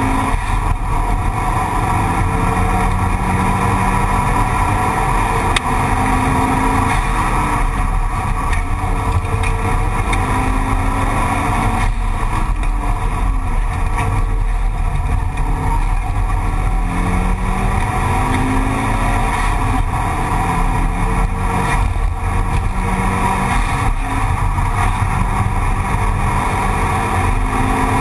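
Mitsubishi Lancer Evolution VI Tommi Mäkinen Edition's turbocharged 2.0-litre four-cylinder engine under hard acceleration, heard from inside the cabin. The pitch climbs and falls back again and again as it is driven through the gears, over a steady rumble of road noise.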